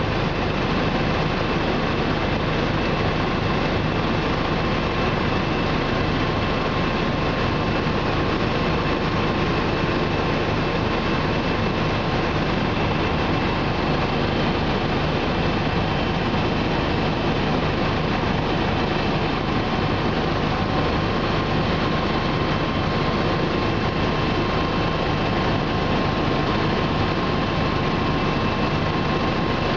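Bell 429 twin-turbine helicopter in steady cruise, heard from inside the cabin: a constant dense rumble of rotor and engine with a steady high whine over it.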